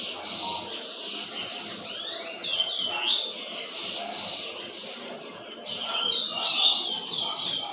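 Double-collared seedeater (coleiro) singing: a quick run of sliding whistled notes about two seconds in and a longer, louder phrase near the end, over a background of other small birds calling.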